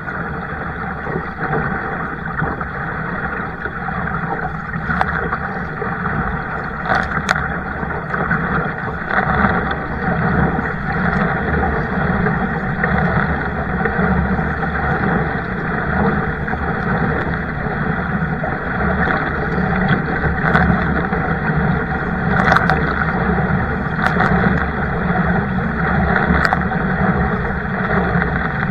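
Steady rushing water and wind noise of a kayak out on the water, with a few scattered light clicks.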